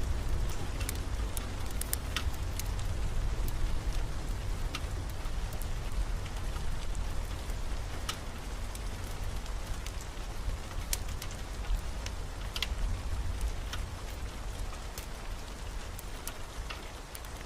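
Steady rain ambience with scattered sharp drop ticks. A low thunder rumble dies away over the first few seconds and the whole sound slowly grows quieter.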